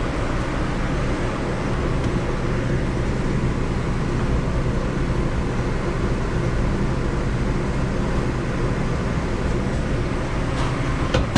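Steady drone of running commercial kitchen machinery: a low hum under an even fan-like rush, with a few sharp clicks near the end.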